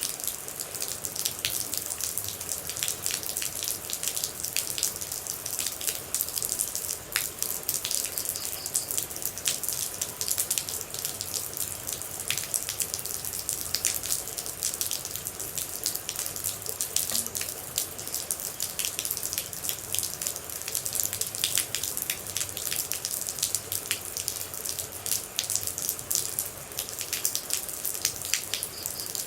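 Rain falling steadily, with a dense patter of individual water droplets striking close by.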